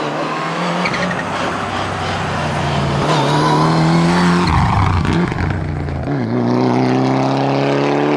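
Mitsubishi Lancer Evo rally car's turbocharged four-cylinder engine at full throttle, rising in pitch through the gears. About four and a half seconds in it lifts for a corner with a short rough, noisy burst. It then accelerates hard again, pitch climbing steadily.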